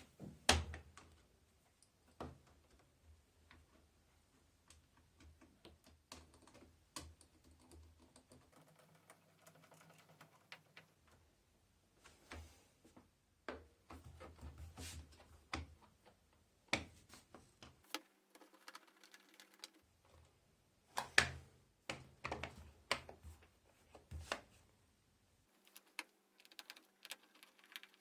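Irregular clicks and light knocks of washing machine parts being handled and fitted during reassembly, the loudest about half a second in and about 21 seconds in.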